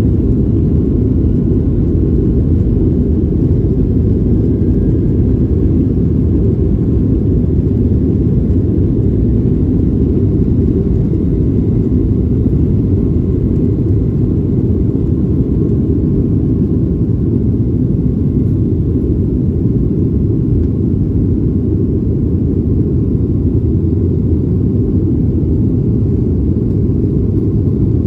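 Boeing 737 airliner's engines and airflow heard inside the cabin as a steady, loud, low rumble.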